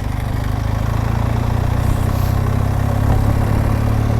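BMW R1200GSA motorcycle's boxer-twin engine running steadily under way, a low drone that grows slightly louder.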